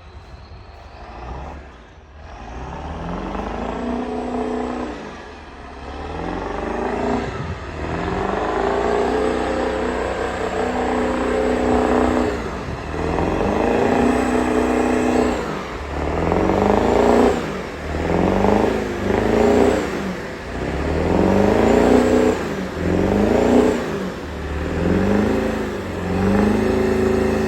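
7.3-litre V8 diesel truck engine revving up and dropping back over and over, about every two seconds, climbing through the first few seconds. The truck is stuck, its wheels digging on ice.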